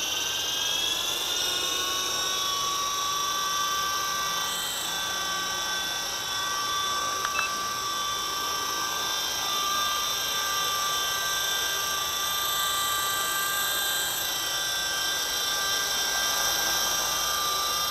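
V913 radio-controlled helicopter's electric motor and rotor whining steadily, the pitch still climbing slightly for about the first second as it spools up, then holding with small shifts as the throttle changes.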